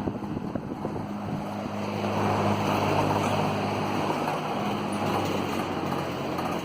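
Eskimo box fan running with a rapid rattling from its badly worn motor bearings. About a second and a half in, the rattle gives way to a steady motor hum and a louder rush of air.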